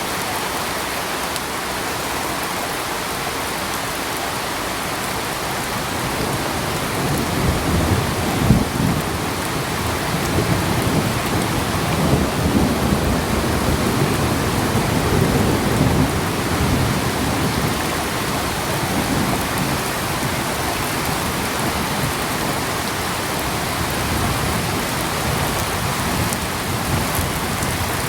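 Steady, even rain hiss. A low rumble of thunder rolls in about six seconds in, peaks a couple of seconds later and fades gradually over the next ten seconds or so.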